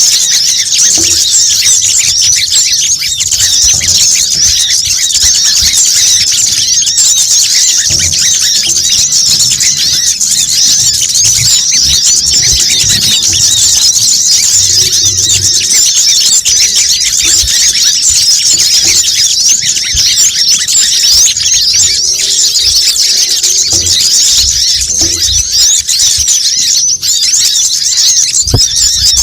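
Bird-trapping lure call: dense, continuous high-pitched chattering of many small birds, a noisy flock-style mix of calls meant to draw in sunbirds such as the brown-throated sunbird, kept up without a break.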